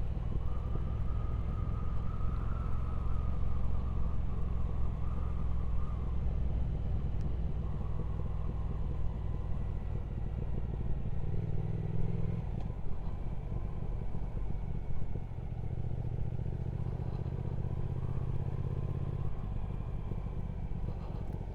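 Triumph Speed Twin 1200's parallel-twin engine running while the motorcycle is ridden along, with the engine note stepping up and down a few times as the throttle changes, over road and wind noise.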